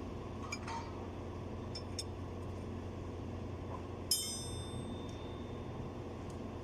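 Metal tools clinking against metal parts a few times, the loudest a single ringing clank about four seconds in, over a steady machine hum.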